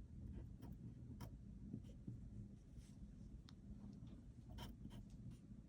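Faint scratches of a pen drawing on paper, in short strokes, over a low steady room hum.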